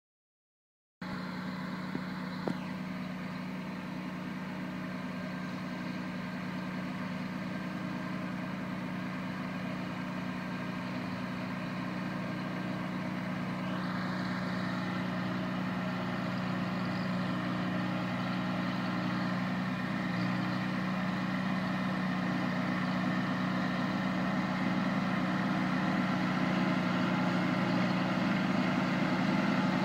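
Kubota B2320 compact tractor's three-cylinder diesel engine running steadily, slowly growing louder. A single sharp click comes about two and a half seconds in.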